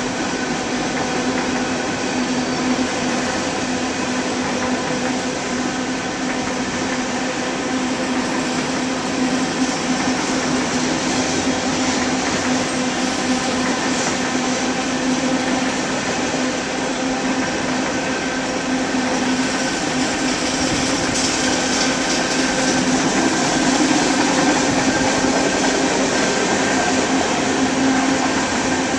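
Freight train of covered hopper grain cars rolling past: a steady rumble of steel wheels on rail with a constant humming tone.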